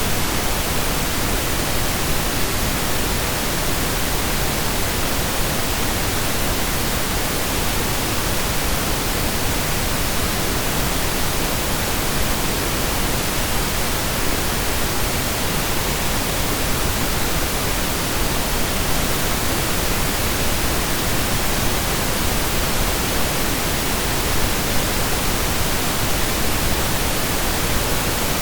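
Steady synthesized pink noise, an even hiss across the whole range with no changes or events.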